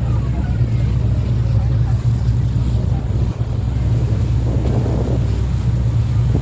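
Boat engine running with a steady low drone, with wind buffeting the microphone.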